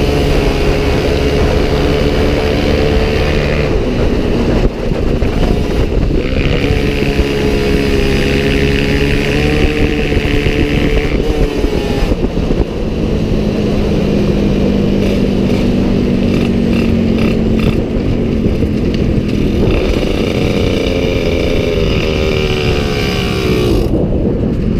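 Motorcycle engines running hard at speed, their pitch holding and gliding slowly up and down, over a heavy rush of wind noise.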